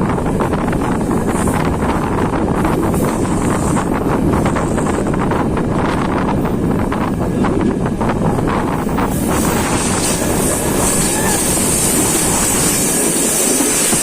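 Diesel-hauled passenger train with Corail coaches running along the line: a steady rumble with many sharp rattles and clicks from the wheels and track, with wind on the microphone. About nine seconds in, a high hiss comes in over the rumble.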